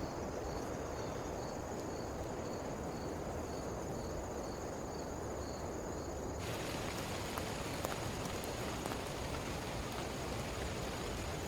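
Rain falling steadily. In the first half, a faint insect chirp pulses about twice a second. About six seconds in, the rain turns abruptly brighter and hissier, with a few faint drop ticks.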